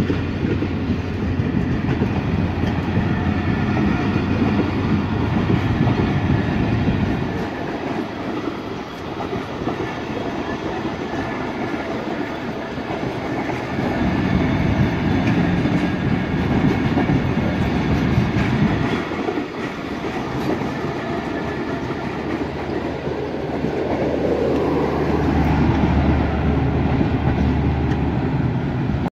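Passenger coaches of the departing Allama Iqbal Express rolling past on the rails, a continuous rumble of wheels on track that swells and eases in turn as the coaches go by.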